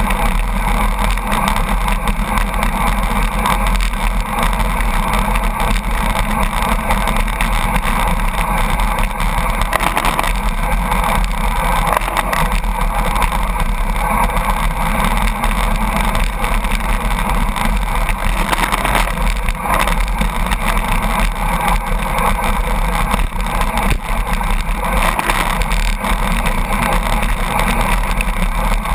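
Steady, loud drone of a truck's engine and tyres mixed with rushing wind, heard from a bicycle drafting close behind the truck at about 82 km/h.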